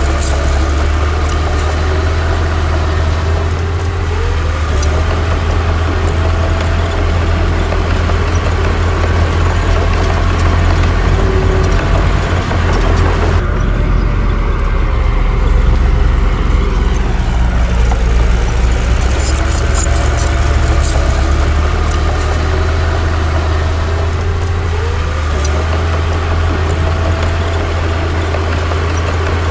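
Komatsu D60 bulldozer's diesel engine running, a deep steady drone whose pitch rises and falls a few times as it works, with scattered light metallic clinks.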